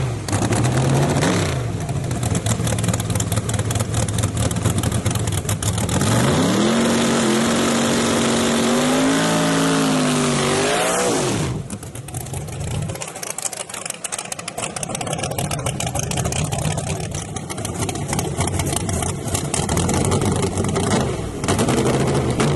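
S10 drag truck engine idling, then accelerating hard from about 6 s in, its pitch climbing in steps for several seconds before the sound drops away sharply; an engine hum carries on afterwards.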